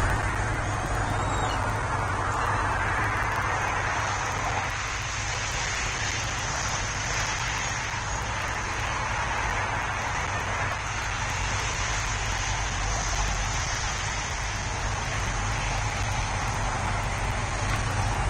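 Steady outdoor background noise on a wildlife nest-camera microphone: a low hum with an even hiss, with no distinct calls.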